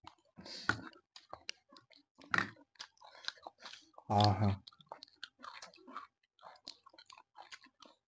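A person chewing and crunching food close to the microphone, with wet mouth clicks and lip smacks scattered throughout. About four seconds in comes a brief, louder vocal sound.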